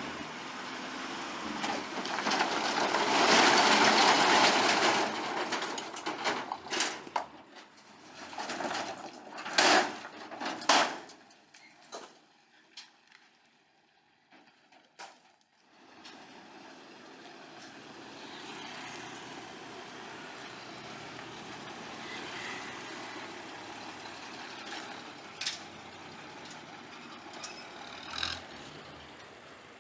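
Heavy vehicle sounds. About two seconds in, a loud rushing noise lasts a few seconds, followed by several sharp knocks. After a short near-quiet gap, a steady running noise carries on with an occasional click.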